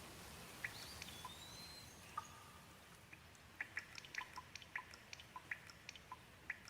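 Gentle rain: individual drops dripping and tapping close by over a faint steady hiss, sparse at first and coming faster from about halfway.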